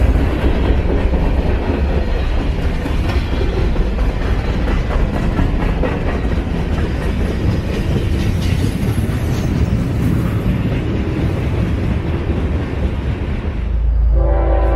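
Freight train cars rolling past close by: a steady, loud rumble of steel wheels on the rails. Near the end it gives way to music with held tones.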